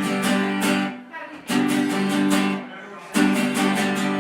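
Acoustic guitar strumming chords in short phrases, with brief breaks about a second in and again just before three seconds.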